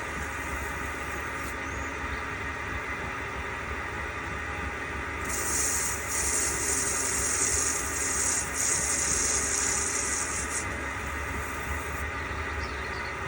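Machine tool running with a steady hum while its cutter takes light cuts on a small metal engine cylinder cap, working its register down to size. A high hiss from the cut comes in about five seconds in and stops about eleven seconds in.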